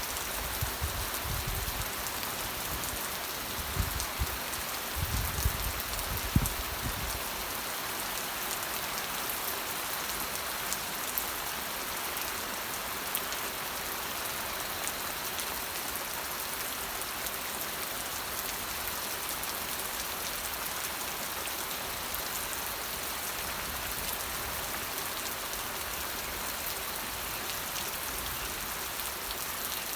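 Steady rain falling, a constant even hiss with scattered sharper drop ticks. A few low rumbles come in the first several seconds.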